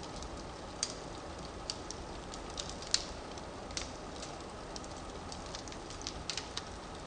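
Firewood burning in a fireplace: a steady hiss with irregular sharp crackles and pops, the loudest about three seconds in.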